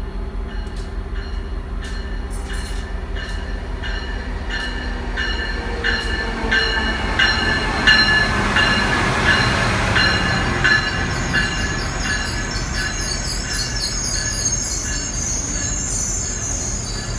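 Amtrak train led by an ACS-64 electric locomotive passing close by, with a bell ringing about twice a second that is loudest as the locomotive goes past about eight seconds in. The rumble of the passenger coaches follows, with a high screech of wheels on the rails in the last few seconds.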